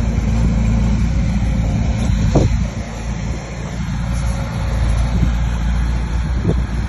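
Heavy diesel engine of a bulldozer running at working revs. There is a short sharp sound about two and a half seconds in and another near the end.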